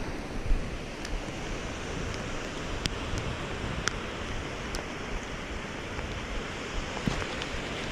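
Steady rushing noise of rain and wind, with a few sharp ticks.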